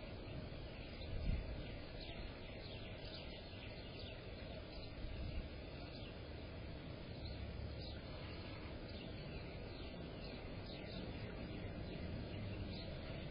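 Small songbirds chirping, many short high notes scattered throughout, over a steady low background noise; a single low thump about a second in.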